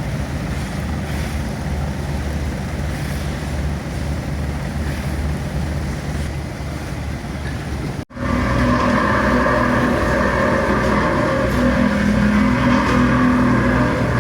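Engines running steadily. About eight seconds in the sound cuts out abruptly, then comes back as a louder engine running, higher in pitch.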